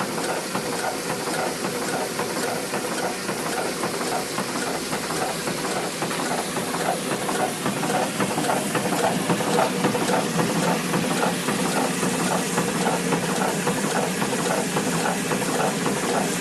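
Ca. 1891 Boettger-built Rider hot air pumping engine running, a continuous rapid mechanical clatter of its linkages and pump, getting a little louder about halfway through.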